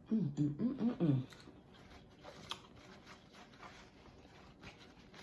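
A woman's voice humming a short "mmm" of enjoyment, its pitch wavering up and down for about a second, followed by faint clicks and crackles of eating and handling crab shell.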